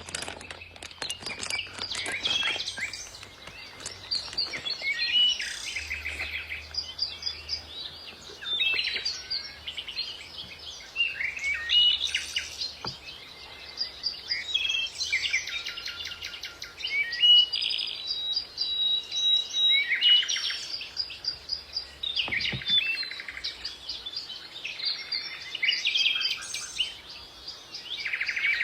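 Songbirds singing and calling: a busy, continuous run of high chirps and trills, several overlapping.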